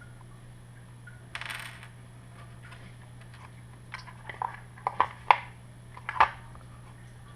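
Small hard parts of an RC truck being handled during disassembly: a brief rustle, then a series of sharp plastic and metal clicks and clacks, the two loudest near the end.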